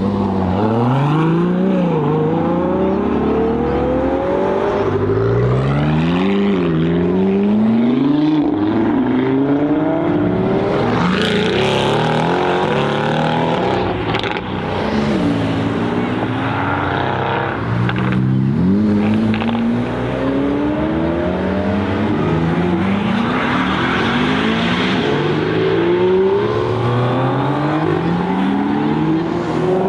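Sports car engines accelerating hard through the gears: the revs climb steeply and drop back at each upshift, many times over, with loud pass-bys in between.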